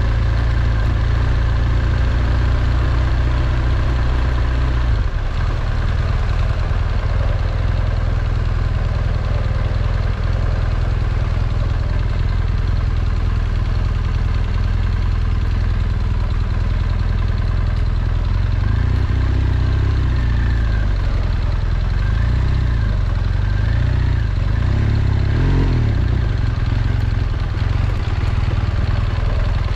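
BMW R1200GS's flat-twin engine running at low speed on a dirt track, its note rising and falling a few times in the second half.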